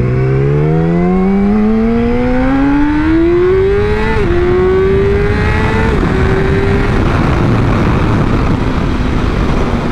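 Motorcycle engine accelerating hard, its pitch climbing steadily, with an upshift about four seconds in and another about six seconds in. After that, wind rushing over the microphone covers most of the engine.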